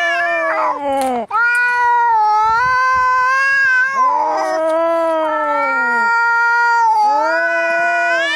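Cats caterwauling in an angry standoff: long, drawn-out yowls that rise and fall in pitch, one after another, sometimes overlapping.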